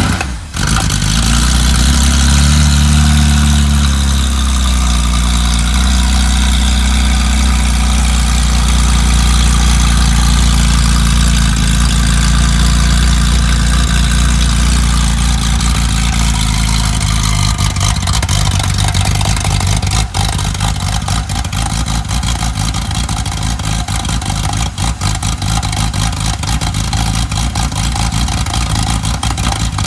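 Engine of a Carrera RSR hot rod running just after a cold start, on a raised idle. The revs rise and fall a little in the first few seconds, then hold steady, and from about eighteen seconds in the individual exhaust pulses become more distinct.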